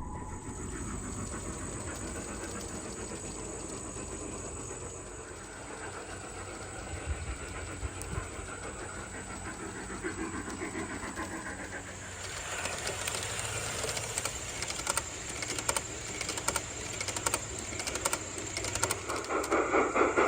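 Garden-scale model train running on its track, a steady running noise with wheel clicks that grow busier about halfway through, and a regular pulsing beat building up near the end.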